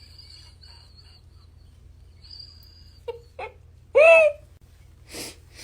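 A pet animal gives one loud wailing cry about four seconds in, rising and then falling in pitch. Two short squeaks come just before it and a brief breathy noise follows.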